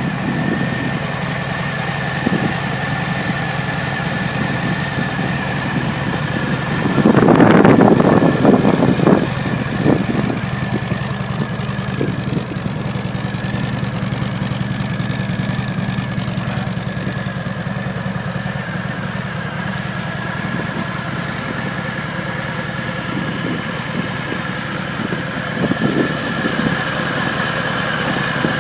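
2019 Harley-Davidson Heritage's 114 cubic-inch V-twin idling steadily, briefly getting louder for about a second around seven seconds in.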